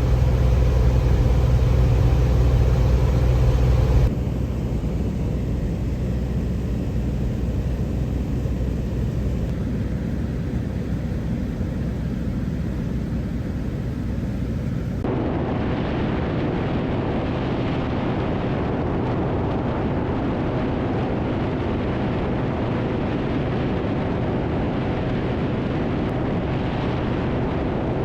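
Cessna 180 light aircraft's engine and propeller droning steadily in flight. The sound changes abruptly about four seconds in and again about halfway, going from a louder, deeper drone to a thinner one with more wind hiss.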